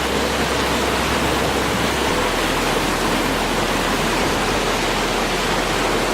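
Waterfall pouring into a pool, a loud steady rush of water.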